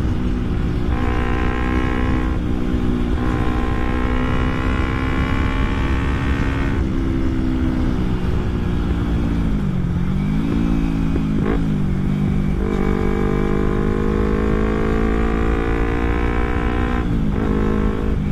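Kawasaki Ninja 250 carburetted parallel-twin running through an aftermarket Akrapovic slip-on exhaust while riding, its pitch stepping with gear changes. The engine note dips and climbs again about ten seconds in. Heavy wind rumble on the microphone throughout.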